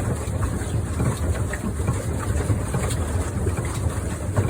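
Steady low rumbling noise of a pedal boat under way on a lake.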